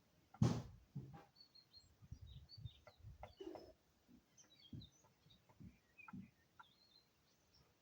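Light knocks and clicks of small parts being handled, with one sharp knock about half a second in and faint, short high chirps scattered throughout.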